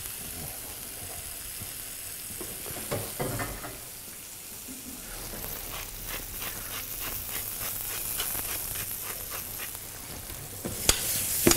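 Julienned vegetables and cherry tomatoes sizzling steadily in frying pans. Over the second half come light, quick strokes of a utensil in a pot, and near the end two sharp clinks.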